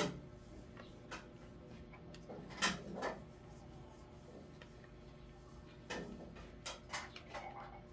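Scattered knocks, clicks and scrapes of a welding machine's packaging and parts being handled during unboxing, loudest about two and a half to three seconds in and again around six to seven seconds in.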